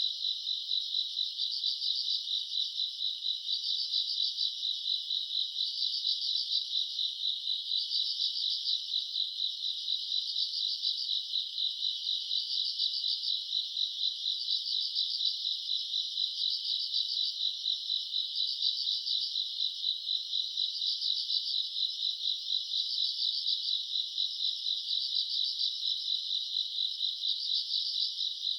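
A chorus of grass insects chirring on a summer night: a dense high-pitched trill that swells and fades in even pulses about every second and a half.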